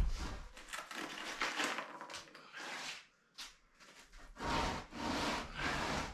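Wet concrete being scraped and spread in a wooden slab form: a run of rhythmic scraping strokes, with a brief lull about three seconds in.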